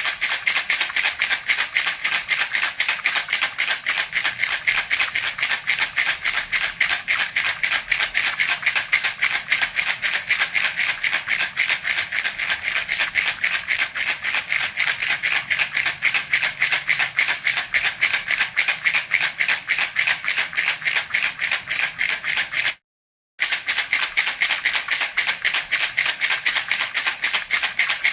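Baby rattle (jhunjhuna) shaken steadily in a fast, even rhythm of bright, jingling rattles, several shakes a second. It cuts out for about half a second late on, then carries on the same.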